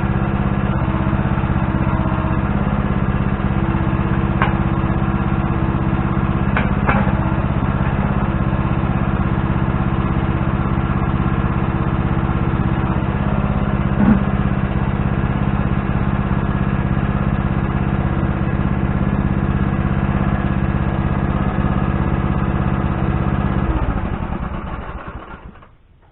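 Engine idling steadily, with a few light knocks over it, then shut off near the end and running down to a stop.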